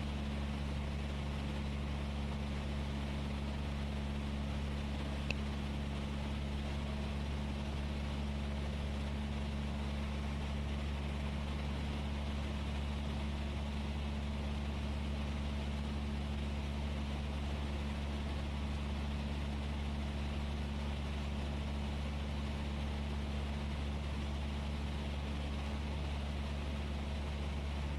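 Cessna 172S's four-cylinder Lycoming engine and propeller droning steadily in cruise flight, heard inside the cockpit, with a faint click about five seconds in.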